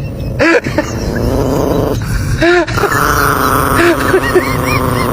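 A dog vocalizing in a series of short calls that rise and fall in pitch, with growling.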